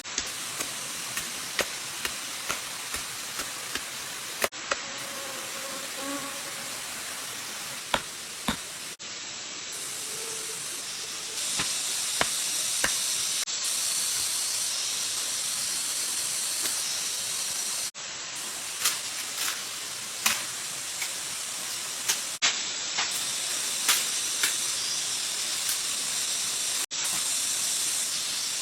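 Steady rushing of flowing jungle stream water, louder from about eleven seconds in, with scattered sharp clicks and knocks over it.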